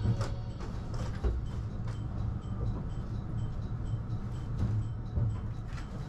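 Train running: a steady low rumble with scattered short clicks and knocks.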